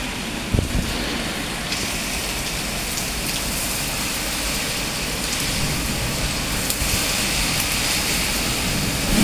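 Heavy hurricane rain pouring steadily, with a low rumble of wind underneath, growing a little louder near the end. There is a brief thump about half a second in.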